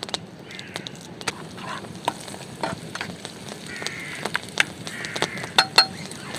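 Campfire crackling: irregular sharp pops and snaps, with a few brief hissing rushes.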